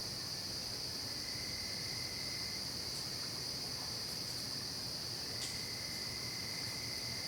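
Night-time chorus of crickets: a steady, high-pitched trilling. A lower, fainter trill comes in twice, about a second in and again after the middle.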